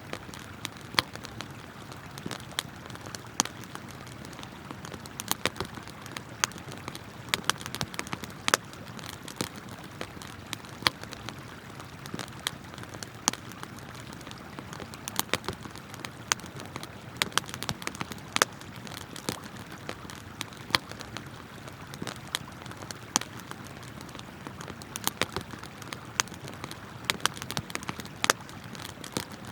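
Wood campfire crackling, sharp irregular pops and snaps over a steady rush of flowing river water.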